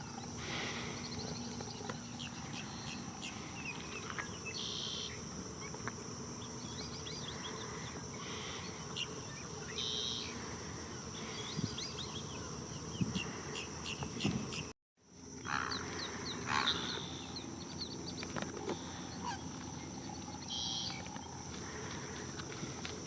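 Wetland ambience of steady insect buzzing with assorted birds calling in short chirps and calls. The sound drops out completely for a moment about two-thirds of the way through.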